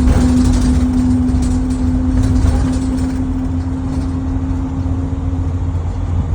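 The rear axle of a 2011 IC CE school bus whining as the bus drives: a steady whine that fades near the end, over a low drivetrain and road rumble.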